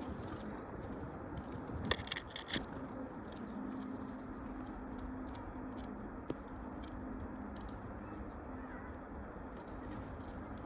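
Short bird calls, a few quick notes about two seconds in, with faint scattered clicks and a faint steady low hum beneath.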